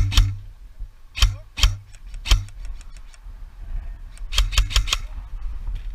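Airsoft rifle firing close to the microphone, each shot a sharp crack with a low thump. It fires single shots: a pair at the start and three more over the next two seconds, then a quick run of about four near the end, with fainter clicks between.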